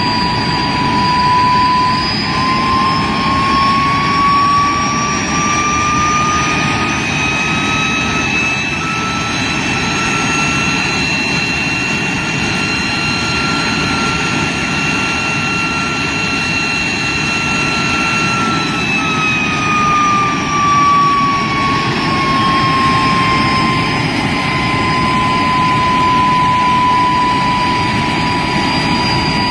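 De Havilland Vampire's Goblin turbojet on a ground run: a loud whine over a steady rush of jet noise. The whine climbs in pitch as the engine is throttled up, holds for several seconds, then winds back down about two-thirds of the way through to its starting pitch.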